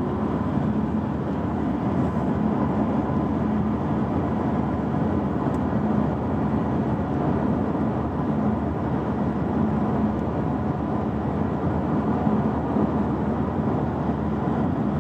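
Steady road and tyre noise inside the cabin of a moving Chery Omoda, with a faint low drone under it.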